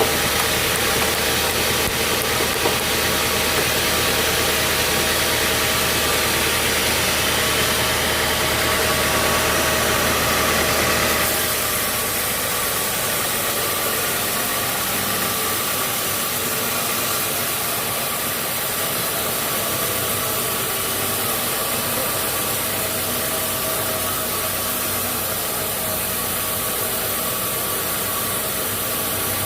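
A sawmill's engine running steadily. About eleven seconds in, the sound changes and becomes a little quieter, losing its low hum.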